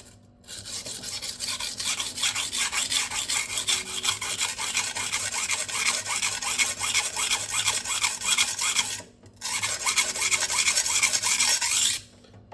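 Steel kitchen knife blade ground back and forth on a coarse 120-grit silicon carbide sharpening stone, a run of quick scraping strokes that stops briefly about nine seconds in and then resumes.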